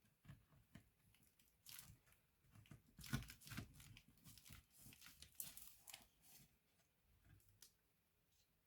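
Faint, irregular scratching and crinkling handling noises with a few sharper clicks, loudest about three seconds in.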